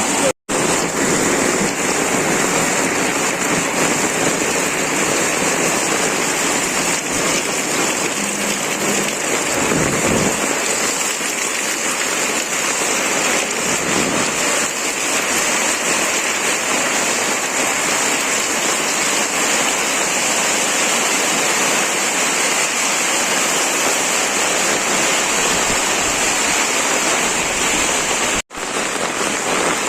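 Steady rain falling, an even hiss. It drops out for an instant near the start and again near the end.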